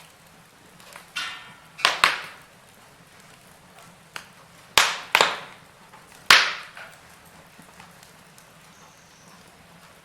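Wood fire burning in a fireplace, with a handful of sharp cracks and pops from the logs, several close together around the middle, over a faint low crackle that is all that remains near the end.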